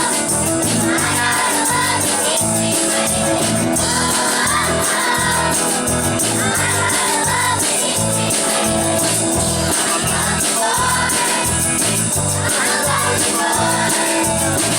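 Children's choir singing along with a loud rock backing track that has a steady, driving beat, with short wordless vocal phrases recurring about every two seconds.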